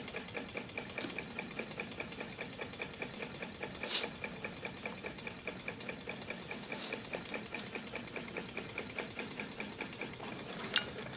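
Homemade milk-can Stirling hot air engine running, its displacer linkage and crank ticking in a steady rapid rhythm of about six beats a second. A sharper click comes about four seconds in and another near the end.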